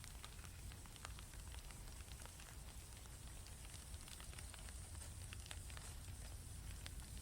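Small campfire crackling: a steady scatter of quick, light pops and snaps over a soft low rumble of the burning wood.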